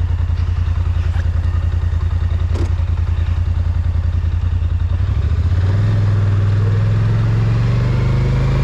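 Polaris Sportsman ATV engine idling with an even pulse, then revving up about five seconds in and holding at a higher, steady speed as it pulls away. A single short click comes before the rev.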